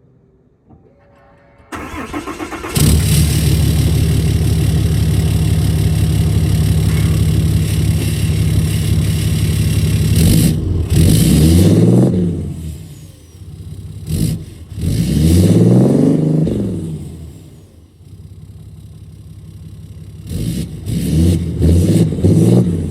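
2020 Ram 3500's 6.7-litre Cummins turbo-diesel inline-six, with DPF and EGR deleted and a 5-inch exhaust, cranking and catching about two seconds in, then running loud and steady. It is revved up and down three times, settling back to idle between revs, and given a string of quick blips near the end.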